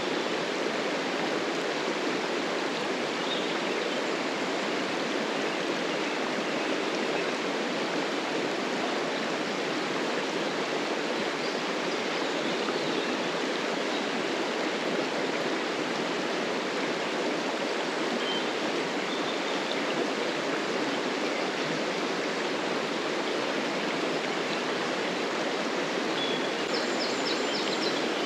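River water flowing over rocks, a steady continuous rush. A few faint, short high chirps come through it, mostly near the end.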